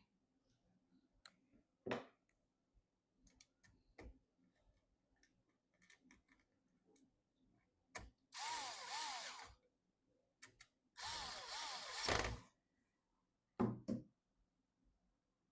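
Small electric screwdriver running twice, about a second each, driving screws during PC assembly, with light clicks and taps of parts being handled around it.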